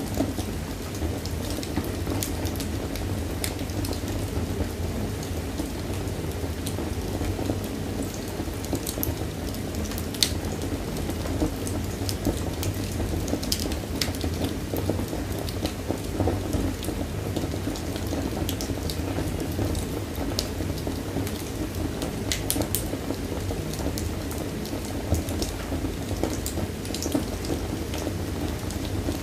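Wood fire burning in a fireplace: a steady low rushing with frequent sharp crackles and pops scattered throughout.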